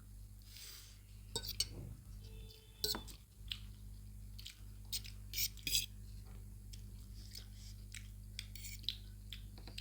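Forks clicking and scraping on plates as noodles are eaten, in short irregular strokes, over a steady low hum.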